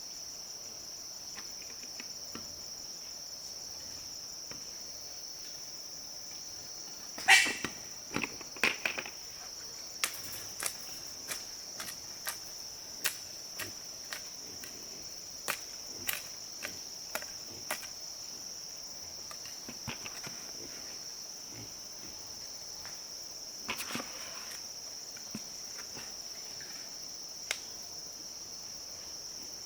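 Steady high-pitched trilling of an insect chorus, crickets, with a run of sharp knocks or clicks roughly every half second to a second starting about a quarter of the way in, and a few more later.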